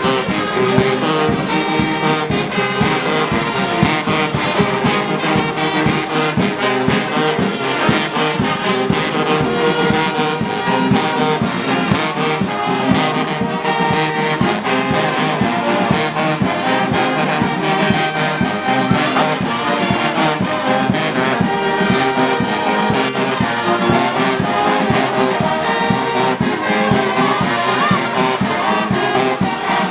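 Brass band music, trombones and trumpets playing steadily without a break.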